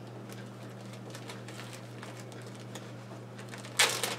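A steady low hum with faint, scattered light ticks, and one short burst of noise just before the end.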